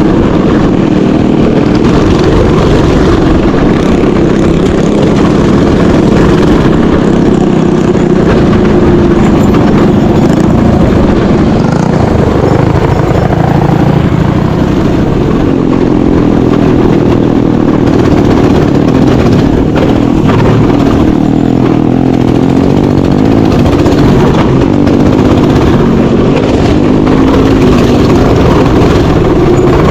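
Mini bike's small engine running hard on a trail ride, loud and continuous, its pitch rising and falling as the throttle is worked.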